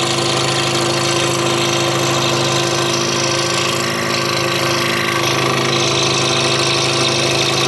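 Scroll saw running steadily, its blade cutting a curving line through a wooden jigsaw puzzle board: a constant motor hum with a hiss over it.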